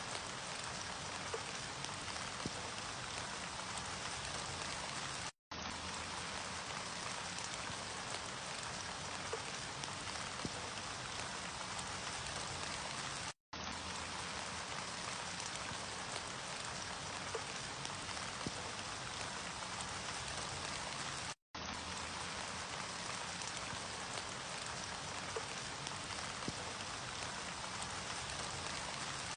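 Steady rainfall, an even hiss of drops on a surface. It cuts out completely for a split second three times, about every eight seconds.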